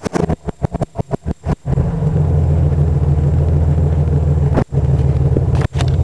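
Exhaust of a 1996 Pontiac Grand Prix's V6 engine heard at the tailpipe. It opens with a second and a half of choppy, uneven pulses, then settles into a steady low idle drone. The owner calls the sound "not too bad".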